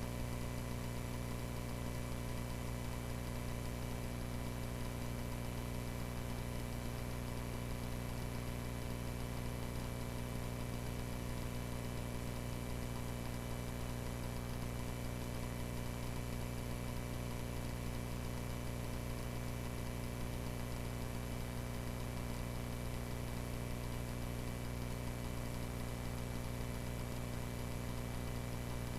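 Cessna 140A's four-cylinder engine and propeller droning steadily in cruise flight, heard from the cockpit with no change in pitch or level.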